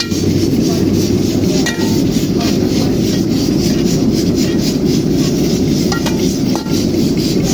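Chicken karahi being cooked in a metal karahi: a spatula scrapes and knocks against the pan, with sharp clinks about two seconds in and twice near the end, over a steady low rumble.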